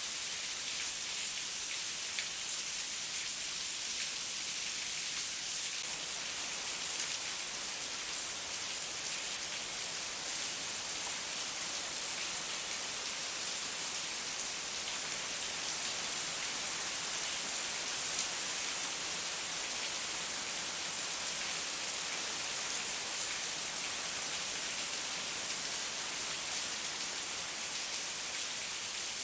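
Heavy rain falling steadily, a dense hiss of drops hitting a surface with no thunder or let-up.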